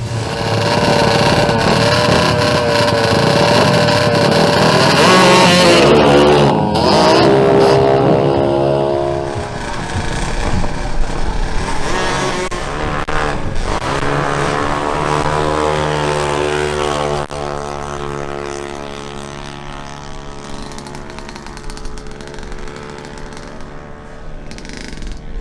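Yamaha BWS scooter and Yamaha RX two-stroke motorcycle making a drag-strip run. The engines rev high, then rise in pitch as they accelerate away, and fade over the last several seconds.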